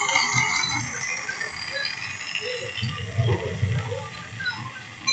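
Model railway 0-6-2 tank locomotive running along the track while pulling a train, with an uneven rattle and many short squeaks from the wheels and rolling stock.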